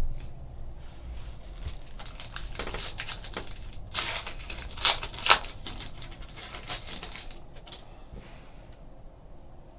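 Crinkly rustling and crackling of a foil trading-card pack being handled and torn open, with cards being slid and shuffled; the loudest crackles come in a burst in the middle.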